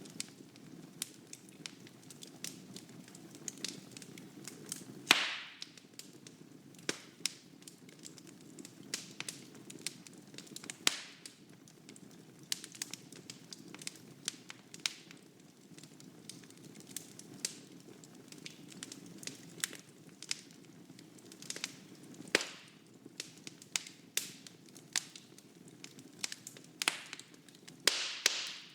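Wood burning in a fireplace: a low steady rumble of flame with frequent, irregular sharp crackles. A few louder pops stand out, the loudest about five seconds in, and another near the end trails off in a brief hiss.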